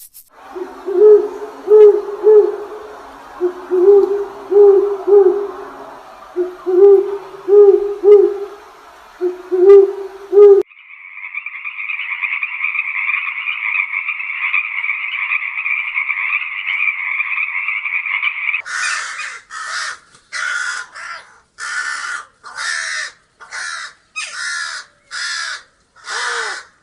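A run of animal calls in three parts. First come groups of low hooting calls, then a steady high-pitched buzzing drone, then loud harsh calls repeated about once a second.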